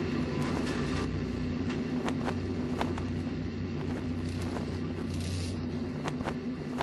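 Steady low rumble with a droning hum, scattered with short crackles and clicks.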